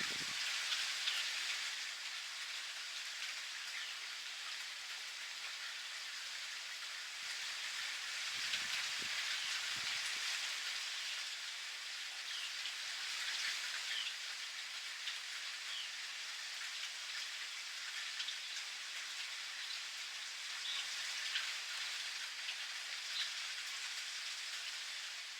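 Steady rain falling, an even pattering hiss, with short bird chirps scattered through it, more of them in the second half.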